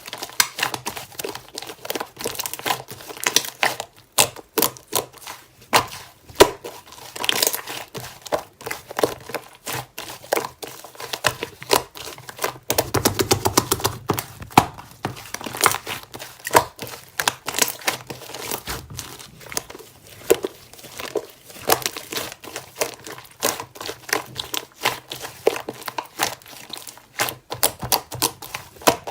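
Slime being squeezed, folded and stretched by hand, giving dense sticky clicks, crackles and small air pops, with a thicker run of clicking about halfway through.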